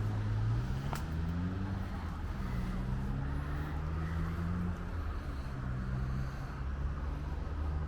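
Low, steady engine hum with a slowly drifting pitch, and a single sharp click about a second in.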